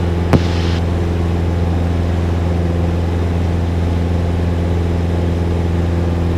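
Cessna's piston engine and propeller droning steadily in the climb after takeoff, heard in the cockpit. A short click and a brief hiss come about half a second in.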